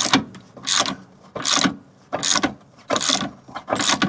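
Ratchet wrench clicking in repeated short strokes, about one every three-quarters of a second, as it winds down the screw of a clamp-style press tool to force a part out of the rear hub.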